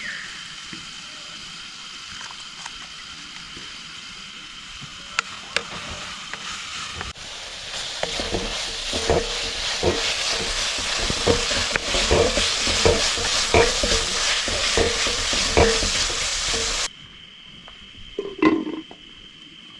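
Food sizzling as it fries in a pan, stirred, with a utensil knocking against the pan about once or twice a second. The loud sizzle starts about seven seconds in and cuts off suddenly near the end.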